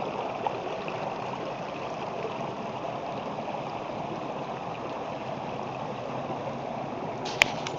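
Running water of a stream, a steady rushing flow, with one short sharp click near the end.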